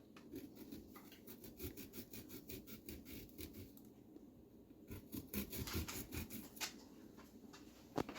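Pumpkin carving tool scraping away the pumpkin's skin in quick, short, faint strokes to carve out highlights, with a brief pause about four seconds in.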